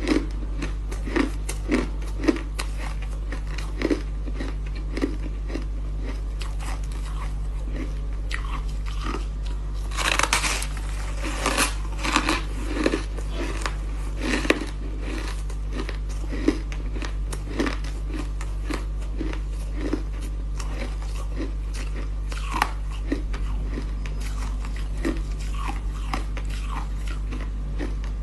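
Ice being bitten and chewed close to the microphone: irregular crisp crunches, coming thickest about a third of the way in. A steady low hum runs underneath.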